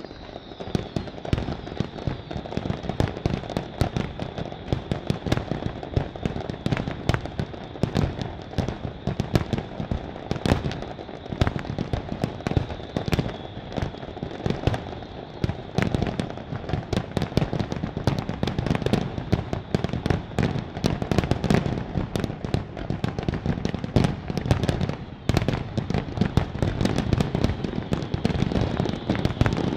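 Fireworks display: a dense, unbroken barrage of shell bangs and crackling.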